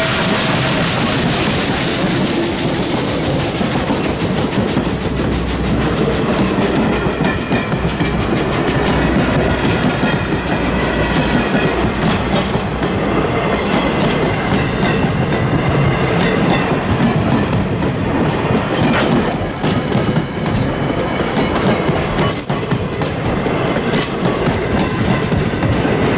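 A passenger train rolling past at close range behind N&W 611, a J-class steam locomotive. For the first couple of seconds the locomotive's steam hiss passes and fades. After that comes the steady rumble of the passenger cars' wheels, clickety-clacking over the rail joints, with a few brief high squeals about three-quarters of the way through.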